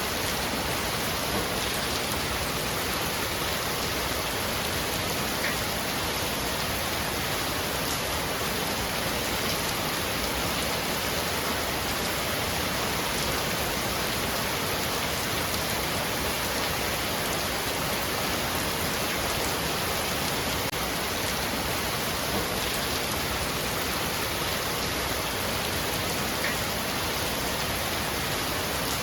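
Heavy rain falling on a roof: a steady, even hiss of rain with a few single drops ticking out now and then.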